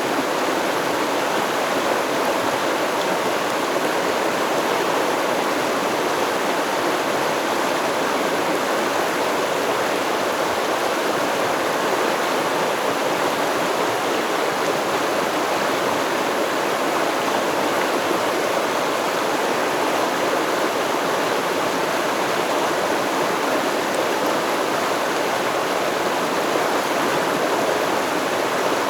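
A stream of water rushing steadily over rocks, a constant even splashing with no changes.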